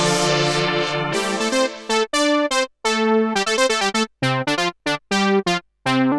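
Sequential Prophet-5 Rev4 analog synthesizer playing a bright, keyboard-like patch. A chord is held for about two seconds, then comes a run of short, detached notes and chords with brief silences between them.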